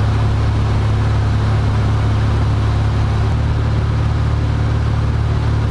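Cessna 172F's six-cylinder piston engine and propeller droning steadily in flight, heard inside the cabin. The tone shifts slightly a little over three seconds in.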